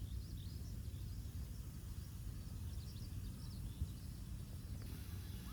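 Quiet outdoor ambience: a steady low rumble under faint, scattered short high chirps that go on throughout, and one small click a little past the middle.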